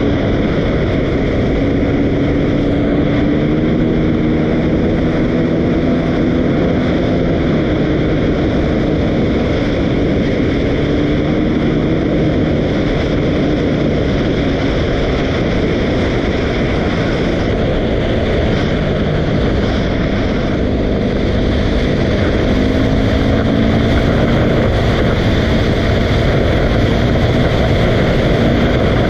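Dirt bike engine running steadily under way, its pitch drifting up and down a little, under a loud constant rushing noise.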